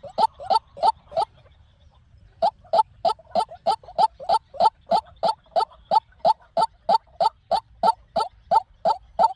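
White-breasted waterhen calling: a fast series of short, loud, repeated call notes at about four a second. The series stops briefly about a second in, then starts again and runs on steadily.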